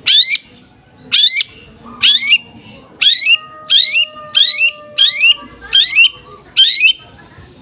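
A small bird calling loudly in a steady series of short, sharp, rising chirps, about one every half second to a second.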